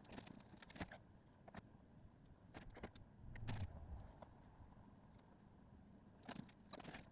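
Faint, scattered clicks and light taps, with a dull low bump about three and a half seconds in, over near-silent room tone.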